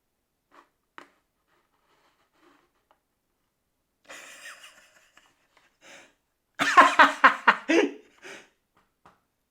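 A person's voice in one short burst of quick repeated sounds, a little over a second long, about seven seconds in. Before it, a few seconds of near-quiet.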